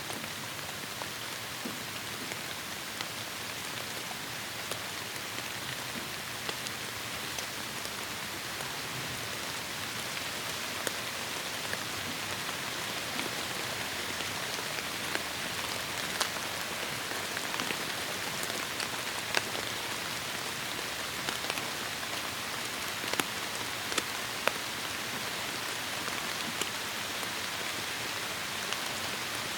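Heavy rain falling on forest foliage: a steady dense hiss with sharp individual drops ticking out here and there, more of them in the second half.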